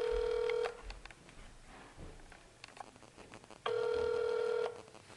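Telephone ringback tone heard through a phone's speaker while a call is being transferred: two rings, each about a second long, the first ending just under a second in and the second about four seconds after the first began.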